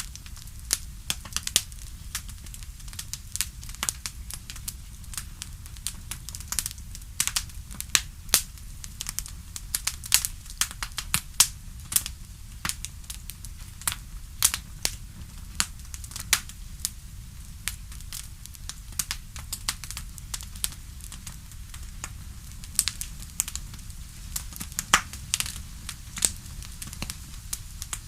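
Wood fire crackling: irregular sharp pops, several a second, over a steady low rumble.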